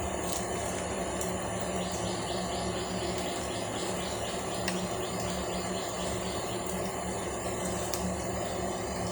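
Steady outdoor background noise with insects chirping in rapid high trills, cutting off abruptly at the end.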